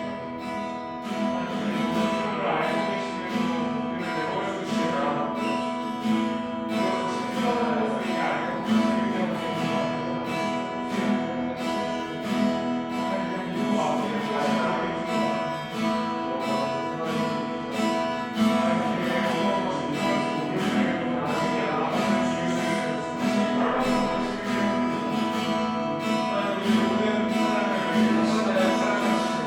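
Acoustic guitar strumming chords in a steady rhythm over held, sustained tones.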